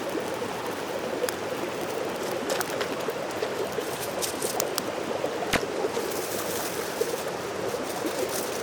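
Mountain stream running steadily, with a few short sharp clicks over it, the strongest about five and a half seconds in.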